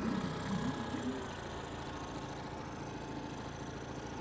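Boat engine idling steadily with a low, even hum.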